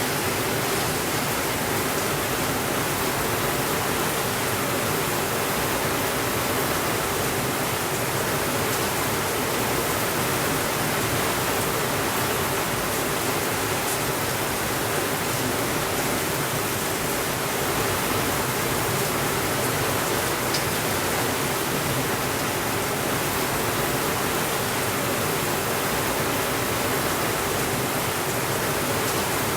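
Steady rainfall, a continuous even hiss with no thunder, with a couple of faint single ticks in the middle.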